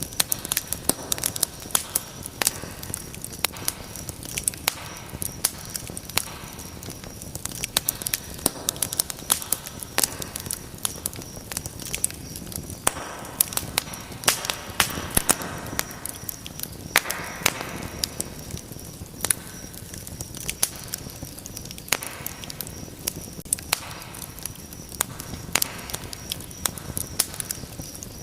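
Wood fire burning in a fireplace, crackling with dense, irregular sharp pops and snaps, with a few brief swells of hissing flame.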